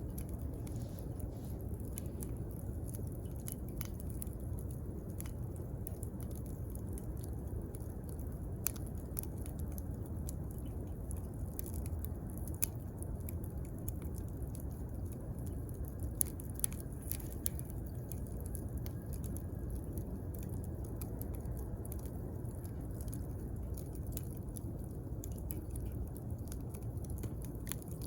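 Wood fire burning, with a steady low rumble and scattered sharp crackles and pops, a few louder snaps about halfway through.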